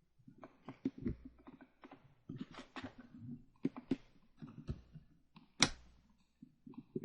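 A run of irregular light knocks and clicks, with one sharp, loud click about five and a half seconds in.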